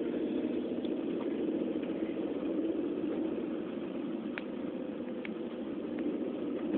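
Vehicle engine running steadily, a low even hum, with a few faint clicks partway through.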